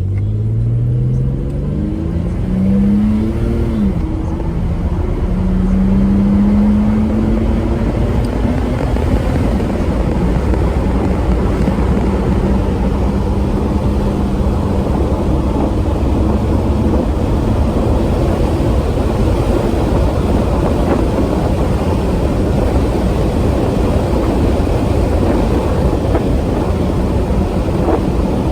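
A 1992 BMW 535i's 3.5-litre straight-six with automatic transmission accelerates hard. The revs climb and fall back as the automatic shifts up in the first few seconds. The engine then runs at a steady note under loud road and wind noise.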